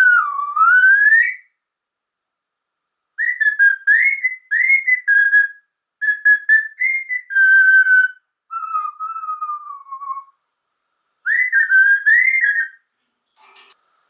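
Whistling: a run of short, clear whistled phrases with pauses between them. The first dips and then rises, and a later one falls slowly.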